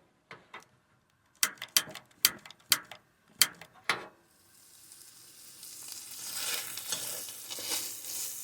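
About eight sharp knocks in quick succession, then corned beef hash starting to sizzle in a frying pan, the hiss building up from about halfway through into a steady frying sizzle.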